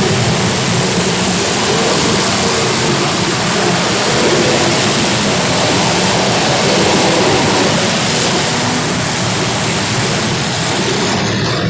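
Race cars' engines running together during a race, a loud steady wash of noise with no clear breaks.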